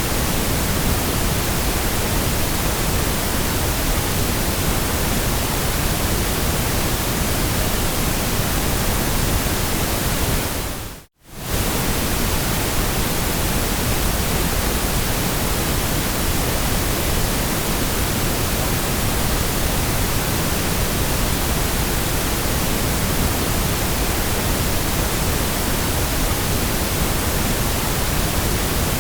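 Steady white noise: an even hiss across all pitches. About eleven seconds in it fades out almost to silence for a moment and straight back in.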